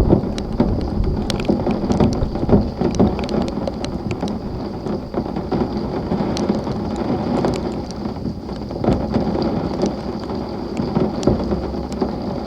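Rain falling in a thunderstorm, with a low rumble of thunder throughout and scattered sharp ticks of drops striking.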